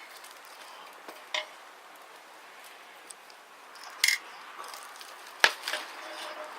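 Three sharp clicks or knocks over a soft steady hiss, the loudest near the end, a couple of them leaving a brief faint ring.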